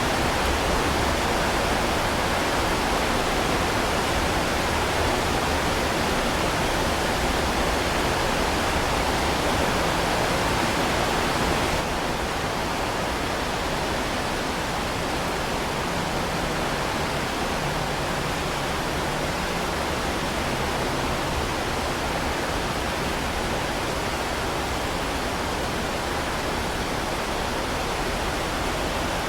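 Heavy rain falling steadily: a dense, even hiss. About twelve seconds in it drops slightly quieter and duller, as at a join in the recording.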